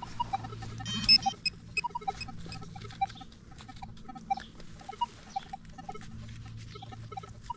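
Metal detector giving short, irregular beeps at two pitches as it is swept over a target, with a louder beep about a second in and scratchy clicks throughout.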